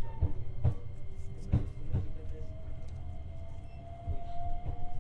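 Inside a 125 series electric train car: a low running rumble with sharp clacks of the wheels over rail joints. From about a second and a half in, a thin motor whine rises slowly in pitch as the train picks up speed.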